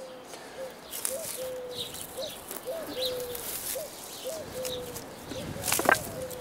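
A bird calling over and over in a low voice, short upward hooks and longer falling notes, with faint higher chirps of small birds. About six seconds in comes a sharp knock, stone on stone as the hedge stones are handled.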